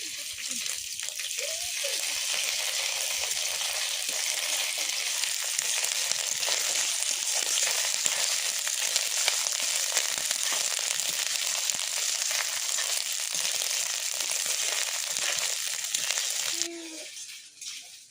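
Ginger and chilli sizzling in hot oil in a kadai, a steady frying hiss that builds over the first couple of seconds and cuts off suddenly near the end.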